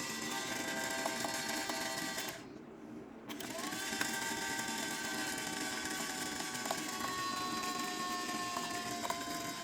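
Small electric motor of a toy washing machine whirring with a steady whine. It stops for about a second a little over two seconds in, then starts again, its whine rising as it spins back up.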